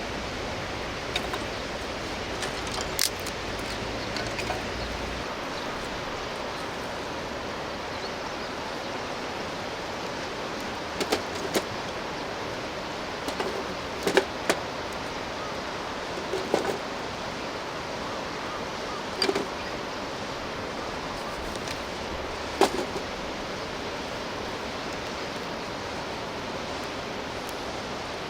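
Campfire crackling, with a handful of sharp pops and cracks scattered over a steady rushing background noise.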